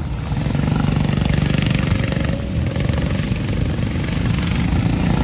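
Go-kart engines running as a pack of karts passes on the track, growing louder about half a second in.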